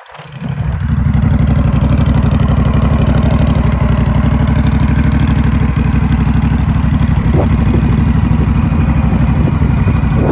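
Honda Rebel 1100's parallel-twin engine idling steadily through an aftermarket exhaust. It comes up in level over the first second, then holds an even beat.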